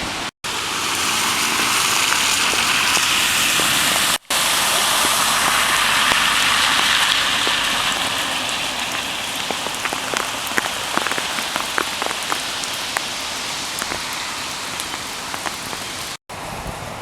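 Heavy rain falling with a dense, steady hiss, with individual drops ticking sharply on a surface. It eases a little after the first half, and it cuts out for a split second a few times.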